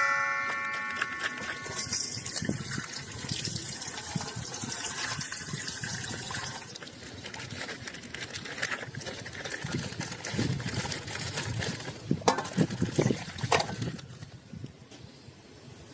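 Plastic toy packaging crinkling and rustling as it is handled and opened, with scattered small clicks and a few sharper ones a little before the end. A chime's ringing fades out in the first two seconds.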